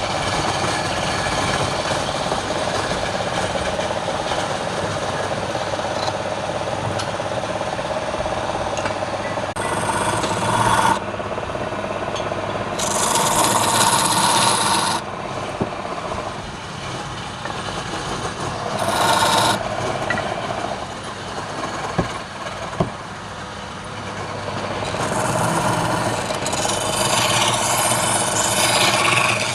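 Wood lathe running with a turning tool scraping and cutting the spinning wood. The contact comes in louder, hissing passes about ten seconds in, around 13 to 15 seconds, around 19 seconds, and again over the last few seconds, with a couple of sharp clicks in between.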